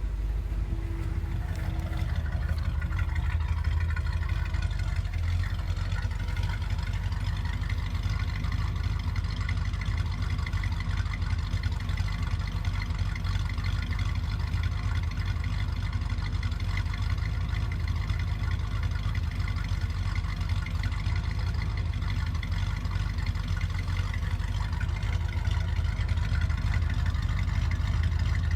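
1965 Chevrolet Impala's 283 small-block V8 running steadily through a parts-store exhaust, a deep, even exhaust note.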